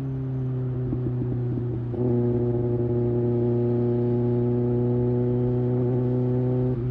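2024 Kawasaki ZX-6R's 636 cc inline-four engine at steady highway cruising revs, with wind rumble on the microphone. About two seconds in, the throttle opens and the note grows louder and holds steady, then eases off near the end with the pitch starting to fall.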